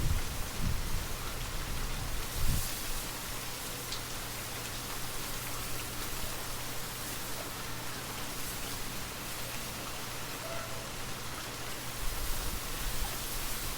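Steady rain falling and pattering on surfaces, an even hiss. A low rumble dies away in the first second, and another starts to build near the end.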